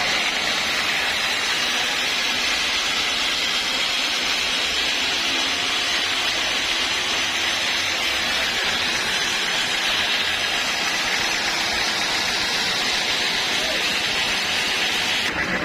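Sawmill saw cutting lengthwise through a large log: a steady, even hiss of the blade in the wood, which drops away just before the end as the cut stops.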